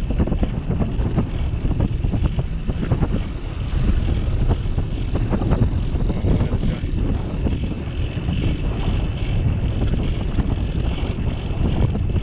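Wind buffeting the microphone of a camera mounted on a moving bicycle: a steady, loud low rumble, with frequent small knocks and rattles from the ride.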